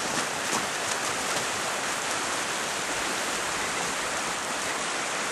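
Flowing water of a stream rushing steadily, with a few faint ticks in the first second.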